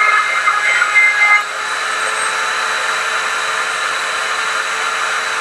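Electric power tool's motor running steadily with a constant hum, rougher and louder for the first second and a half, then settling into an even run.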